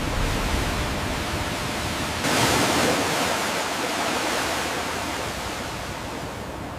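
Steady rushing water, getting louder about two seconds in and then slowly dying away.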